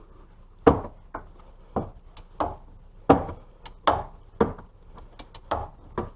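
A run of sharp metallic clicks and knocks from hand tools working the hub assembly's mounting bolts. They come irregularly, roughly one or two a second, each with a brief ring, starting under a second in.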